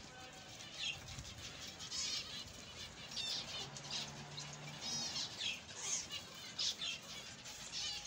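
Small birds chirping, short high calls repeating every half second to a second, with a brief low hum near the middle.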